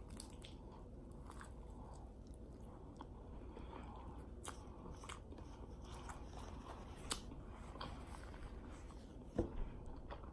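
Close-up eating of a deep-fried egg roll: faint crunching of the crisp fried wrapper and soft chewing, with scattered small crunches. A short louder bump comes about nine seconds in.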